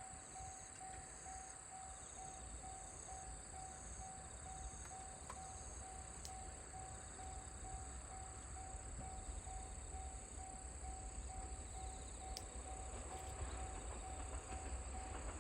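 Faint rural ambience with insects chirping in a steady, evenly pulsing rhythm, and a low rumble that slowly grows louder toward the end as a train approaches.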